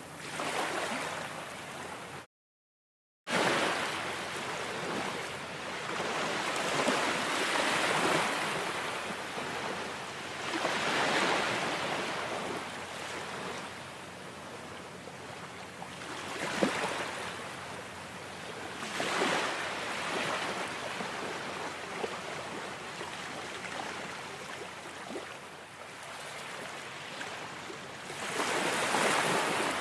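Ocean waves washing in, a steady surf hiss that swells and subsides every few seconds. The sound cuts out completely for about a second, roughly two seconds in.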